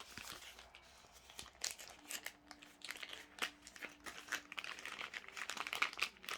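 Crinkly plastic packaging of diamond painting kit accessories being handled, in quick irregular crackles.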